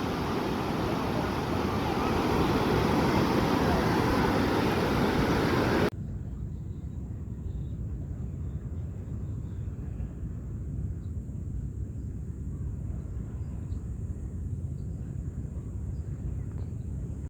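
Wind buffeting the microphone by the sea, with surf in the noise. About six seconds in it cuts abruptly to a quieter, steady low rumble.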